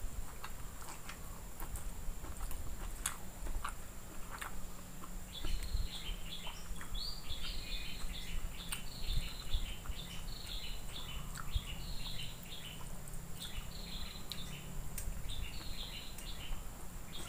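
A small bird chirping in quick runs of short, high notes, starting about five seconds in, over a person's chewing and the small clicks of eating by hand.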